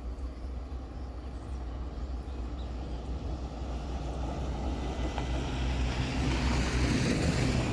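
GE C36-7 diesel-electric locomotive approaching, its engine hum growing steadily louder over a low rumble, becoming plainer about five seconds in.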